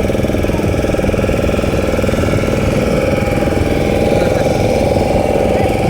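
Motorboat engine running steadily and loudly.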